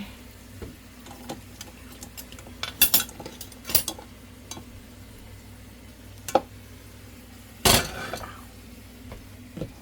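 Metal utensils clinking and knocking against a cooking pan as the chicken's sauce is strained, a few scattered strikes with a louder, longer clatter near the end, over a steady low hum.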